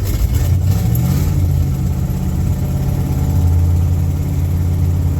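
Worn-out old vehicle engine running fast just after catching on a cold start, kept at a high idle so it won't stall. Its pitch rises slightly about a second in, then holds steady.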